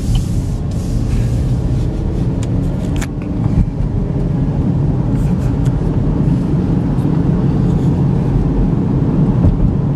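Steady road and engine noise inside the cabin of a 2013 Chevy Equinox with the 3.6-litre V6, cruising at about 40 mph.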